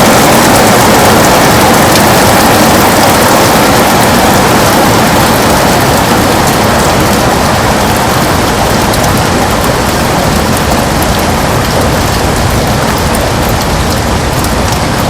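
Heavy rain beating steadily on a window: a dense, even hiss with fine drop ticks through it, growing slightly softer over the stretch.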